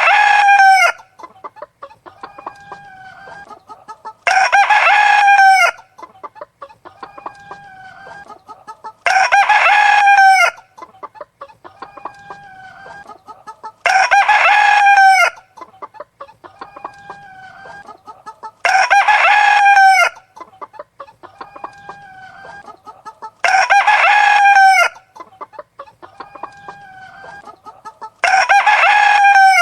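A rooster crowing again and again at very even intervals, about every five seconds, each crow a loud call of just over a second. Hens cluck more softly in between.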